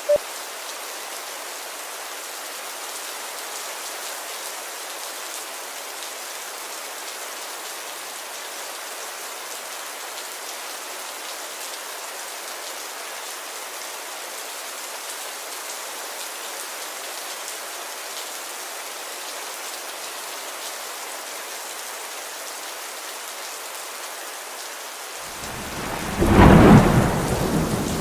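Steady rain falling. Near the end a roll of thunder builds and rumbles, louder than the rain.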